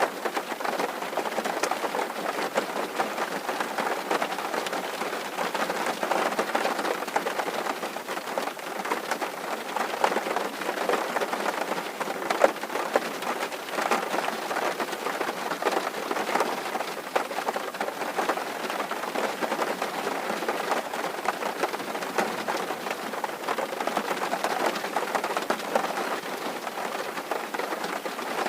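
Rain falling steadily on a tin roof: a dense, even patter of countless small drop impacts.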